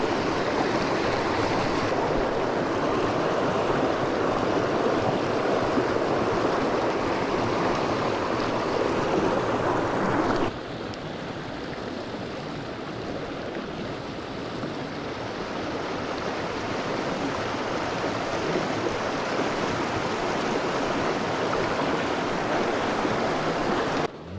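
Small mountain stream rushing and babbling steadily over rocks. About ten seconds in the sound drops suddenly to a quieter, steady level.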